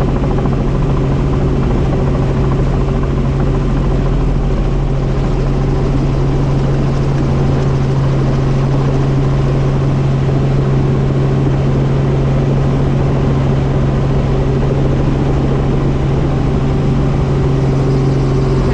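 Helicopter running in flight: a steady, loud drone of the rotor and engine with a strong low hum that holds an even pitch.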